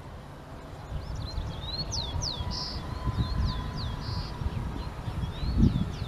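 Small birds chirping in quick, short sliding calls, many in a row, over a low rumbling noise that swells briefly near the end.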